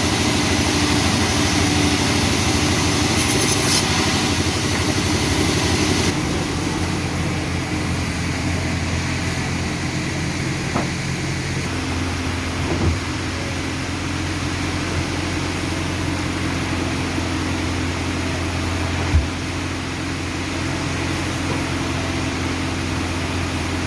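Sawmill engine running steadily with an even hum, a hiss over it that drops away about six seconds in, and a few light knocks later on.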